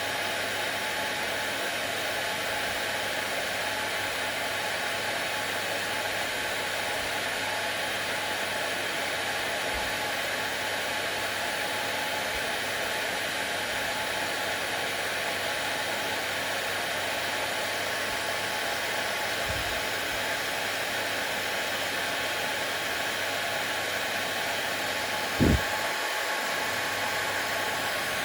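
Hair dryer running steadily, an even whooshing noise with a faint hum. A single brief low thump about 25 seconds in.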